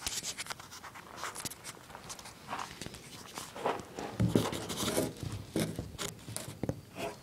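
Camera being handled and set down: irregular rustling, clicks and a few soft knocks, the loudest cluster about two thirds of the way in, with no engine running.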